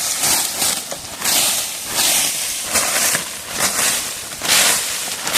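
Dry leaf litter rustling and crunching in repeated swishes, about one a second.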